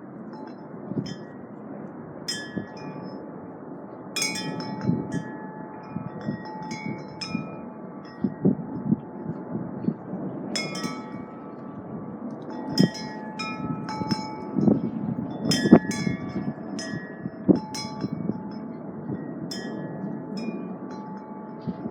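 Wind chimes ringing in irregular clusters as gusts knock them, with a steady low wind rumble on the microphone underneath.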